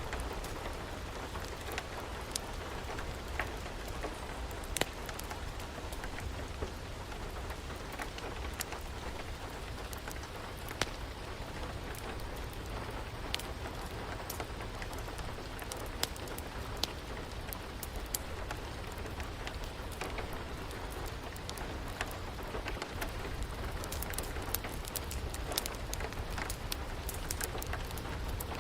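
Steady rain with scattered sharp pops and crackles of a wood fire, the crackles coming thicker near the end.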